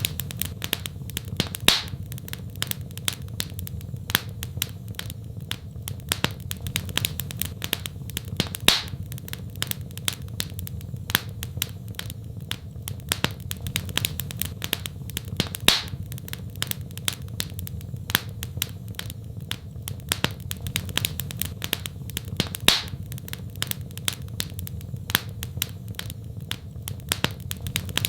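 Wood fire crackling in a fireplace: a constant patter of small crackles over a steady low rumble, with a louder sharp pop about every seven seconds.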